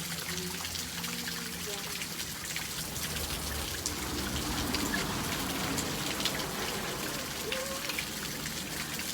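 Steady rain falling, with many individual drops ticking sharply on surfaces.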